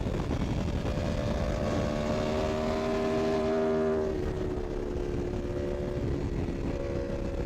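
Superbike engine running at high speed on the highway, its note holding steady over heavy wind rush, then dipping a little about four seconds in.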